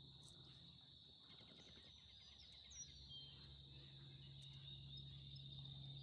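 Faint outdoor ambience: a steady high-pitched insect trill, with a few faint bird chirps and a low steady hum underneath.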